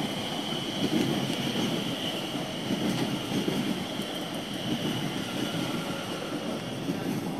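Class 720 Aventra electric multiple unit passing at speed over a level crossing: a steady rumble of wheels on rail, with a faint high tone for most of the pass.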